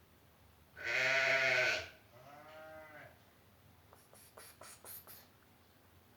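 Domestic cat meowing twice: one loud, drawn-out meow, then a quieter one that rises and falls in pitch. A few faint clicks follow.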